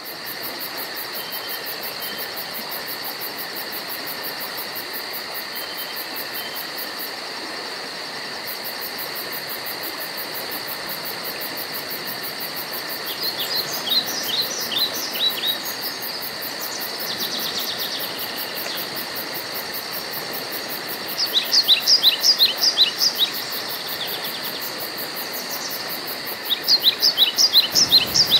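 Wild outdoor ambience: a steady, high insect drone with a fast even pulsing on top, and a bird calling three times in runs of short, quick notes, which are the loudest sounds.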